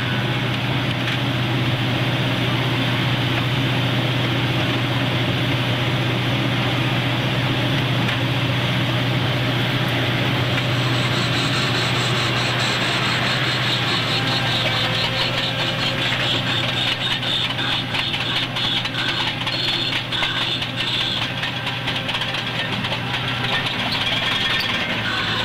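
Casey Jr. Circus Train's diesel-powered locomotive running steadily with a low drone, heard from a passenger car as the train moves along its track. From about halfway, fast clicking and rattling from the moving cars and wheels grows more noticeable.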